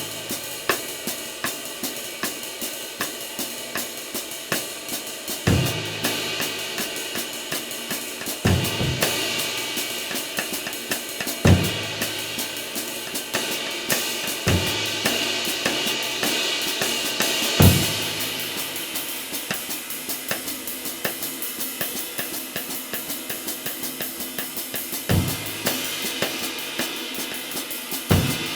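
Handmade 24-inch ride cymbal played in a steady pattern of quick stick strokes over a drum kit, with a low bass-drum hit every few seconds. The cymbal's wash builds up and rings loudest about halfway through.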